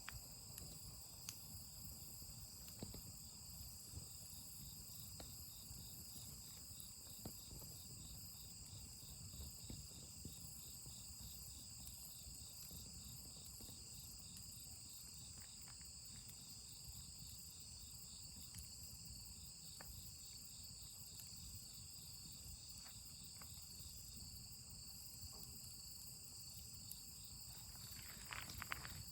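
Insects, crickets and the like, chirping steadily in fast, even pulses at a high pitch, over a faint low rumble, with a few scattered faint clicks. Near the end, some louder handling or rustling sounds come in.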